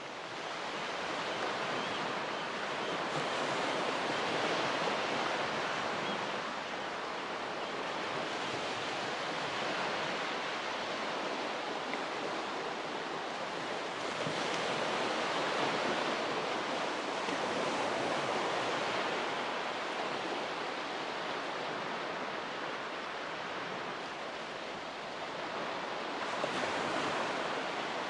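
Ocean waves breaking and washing on a beach in slow swells, each surge rising and fading over several seconds, with some wind.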